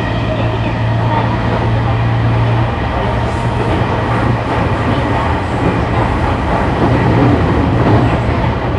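JR East E217 series electric train running along the line, heard from inside a passenger car: a steady rumble of wheels on rail with a constant low hum and no change in speed.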